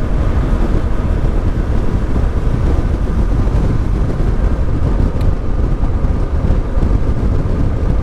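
Wind rushing over a helmet-mounted microphone on a moving motorcycle, with the Yamaha Ténéré 700's parallel-twin engine and Akrapovic exhaust running steadily underneath.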